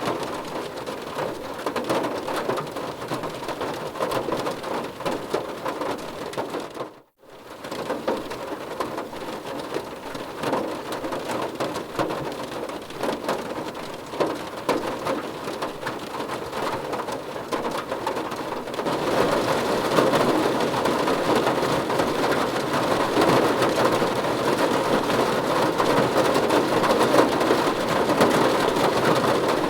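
Heavy rain drumming on a car's roof and glass, heard from inside the car as a dense patter of drops. The sound cuts out briefly about seven seconds in, and the rain grows louder and heavier from about nineteen seconds.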